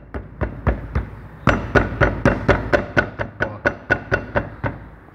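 Brake caliper knocking metal on metal as the wheel is struck over and over, about four knocks a second, louder from about a second and a half in. The knock is play in the worn brake caliper guide pins, which gives the suspension-like clunk over rough roads.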